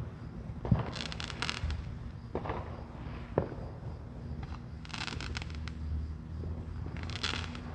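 Fireworks going off: two sharp bangs, one about a second in and another a few seconds later, with bursts of crackling shells in between and near the end.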